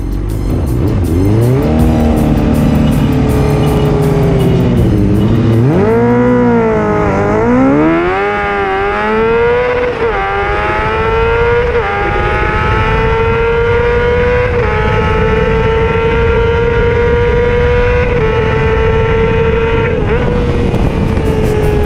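2005 Suzuki GSX-R600 inline-four sport bike with an aftermarket muffler, heard up close at the exhaust, accelerating hard from a standing start. Its revs climb in a high wail with a short dip in pitch at each of several quick upshifts, then hold high and fairly steady at speed.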